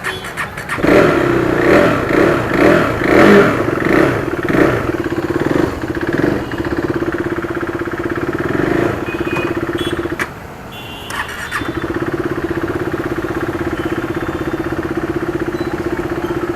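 KTM RC 390's single-cylinder engine being revved in about five quick surges, then running on more steadily. It drops off briefly about ten seconds in, then comes back as a steady engine note.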